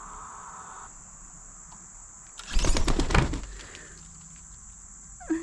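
Steady high-pitched chorus of crickets, with a loud, crackling rustle lasting about a second near the middle and a short falling chirp near the end.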